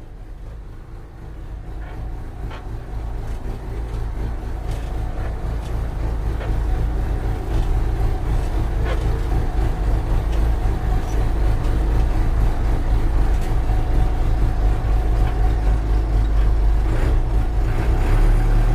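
Heavy machine engine running with a deep rumble that grows louder over the first several seconds, then holds steady, with a few faint clicks and knocks over it.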